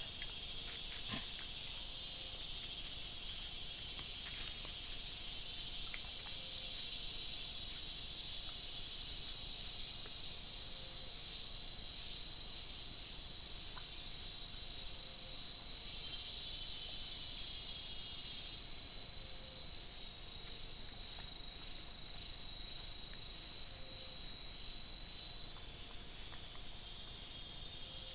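Steady, high-pitched chorus of forest insects, unbroken throughout. A faint low note repeats about every two seconds underneath.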